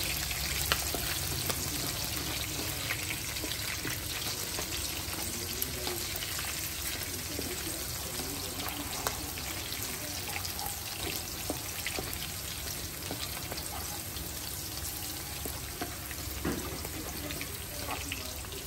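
Sliced shallots sizzling in hot oil in a non-stick wok, stirred with a spatula that clicks and scrapes against the pan now and then.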